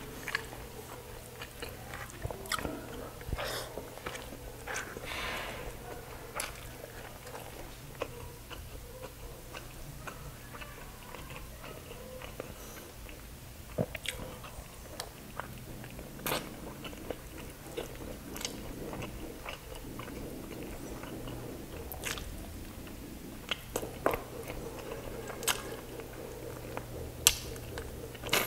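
Close-up eating sounds: a man chewing and biting into saucy chicken and rice eaten by hand, with frequent short wet mouth smacks and clicks over a steady faint low hum.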